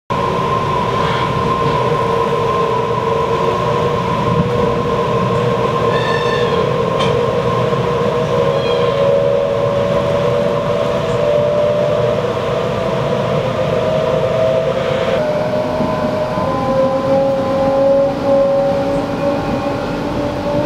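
Sydney Waratah (A-set) electric train running, heard inside the carriage vestibule: a steady rumble of wheels and running gear, with a whine from the traction motors that slowly rises in pitch.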